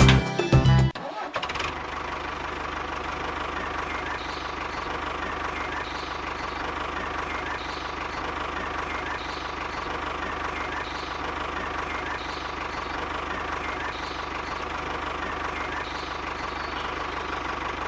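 A small motor running steadily with an even hum, with a faint soft tick about every second and a half.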